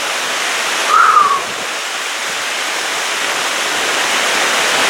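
Steady rush of a mountain creek cascading over rocks and falls, an even loud hiss of water. A short, high falling note cuts through about a second in.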